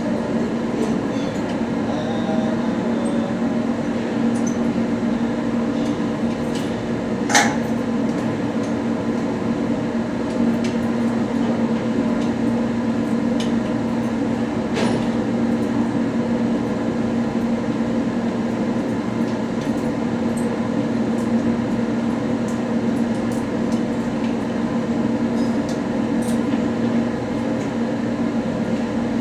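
Steady machinery drone with several constant humming tones, unchanging throughout, with a sharp click about seven seconds in and another near fifteen seconds.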